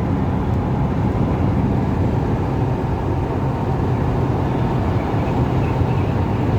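Steady low road and engine noise heard inside the cabin of a car driving at highway speed.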